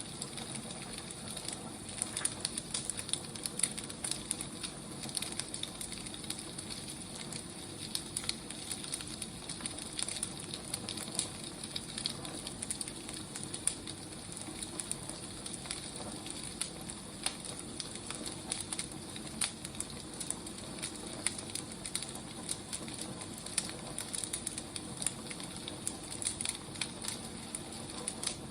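Wood fire crackling: a steady soft hiss with many small irregular pops and snaps.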